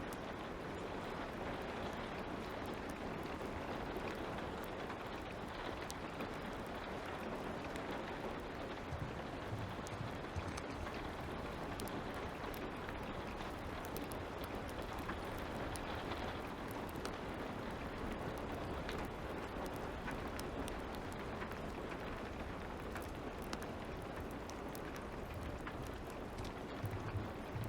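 Light rain falling steadily, with a crackling fire giving scattered small pops and clicks over the hiss.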